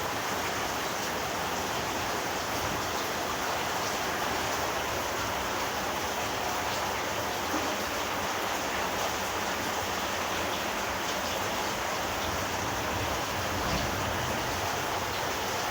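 Steady rushing noise of water in heavy rain, with no breaks.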